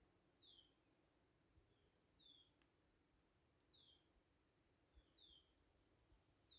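Faint bird song: one bird repeating high whistled notes, alternating a short level whistle with a downslurred note, about one note every three-quarters of a second.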